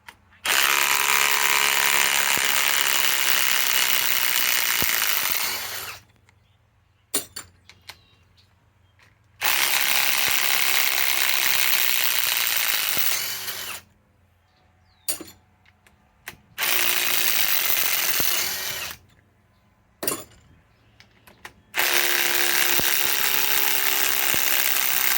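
Ryobi PSBIW25 compact cordless impact wrench hammering on lag screws in wood, in four long bursts of a few seconds each with pauses between, and a few short clicks in the pauses.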